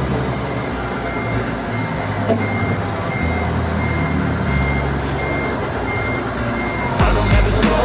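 Forklift reversing alarm beeping about twice a second over a steady low engine hum. Music comes in near the end.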